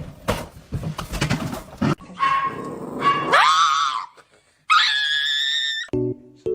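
A dog howls in two long calls after some scuffling: the first rises sharply and wavers, the second is higher and held. Music starts near the end.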